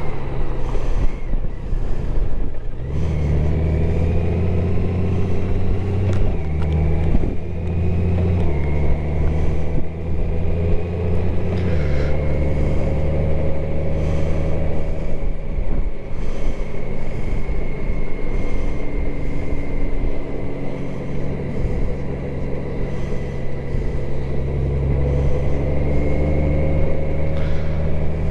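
Motorcycle engine running under way, with road and wind noise. The engine note holds steady, then shifts to a new pitch several times in the first dozen seconds as speed changes.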